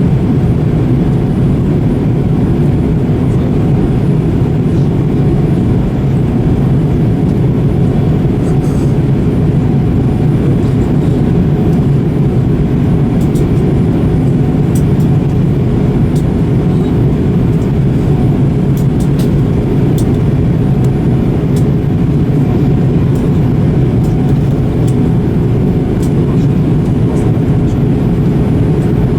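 Airliner cabin noise: a steady low rumble of the jet engines and airflow, with a faint constant hum and a few light clicks and rattles.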